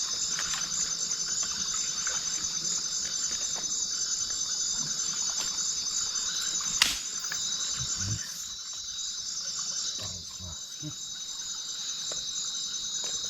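Crickets and other night insects chirring in a dense, steady, pulsing chorus, with one sharp click about seven seconds in and a few soft low knocks.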